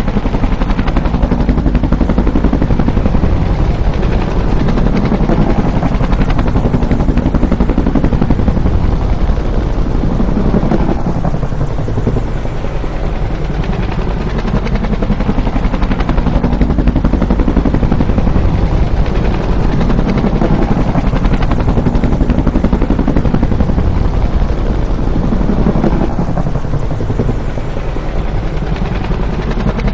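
Bell UH-1 "Huey" helicopter flying by, its rotor beating and engine running loud and steady, the tone sweeping slowly up and down every several seconds.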